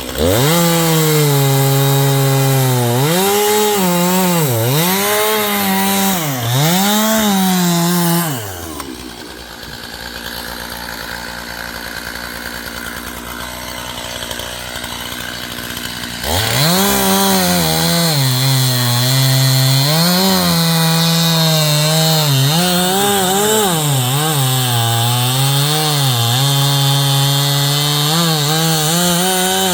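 Stihl two-stroke chainsaw cutting poplar wood. The engine pitch dips and recovers again and again as the chain bites under load. About eight seconds in it drops to quieter steady running. About sixteen seconds in it comes back to full revs and cuts again.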